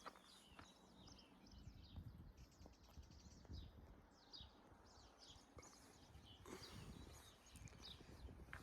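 Faint outdoor ambience: small birds chirping in quick, short calls, over a low rumble and occasional soft steps.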